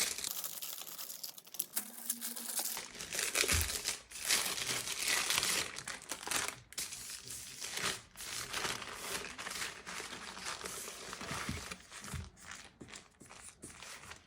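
Packaging crinkling and rustling in irregular crackles as a pack of puff pastry is unwrapped.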